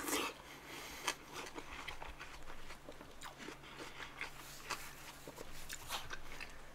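A bite into a slice of watermelon, then chewing the crisp flesh with many small crunches and clicks, close to the microphone.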